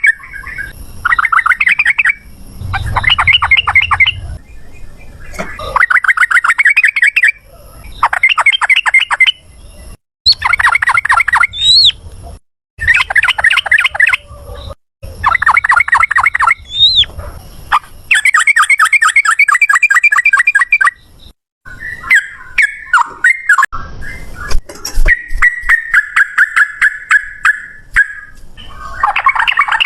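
Yellow-vented bulbul (trucukan) singing loud, rapid rattling bursts of notes, the fast 'ropel' phrasing, each burst lasting one to two seconds and repeated after short pauses.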